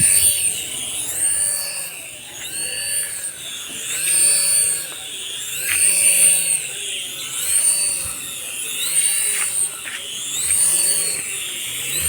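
Small electric motor of a toy RC helicopter whining, its pitch swelling up and falling back in a smooth arch about every two seconds as it speeds up and slows down.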